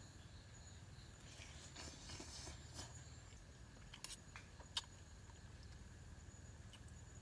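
Faint sounds of a person eating: soft rustling, then a few light taps and clicks of utensils, the sharpest about five seconds in, over a low steady background hum.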